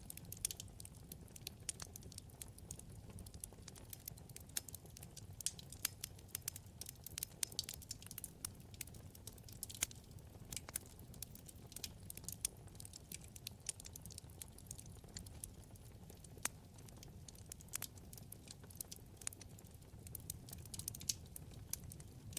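Wood fire crackling in a fireplace: irregular sharp pops and snaps from the burning logs over a low, steady rumble of flame.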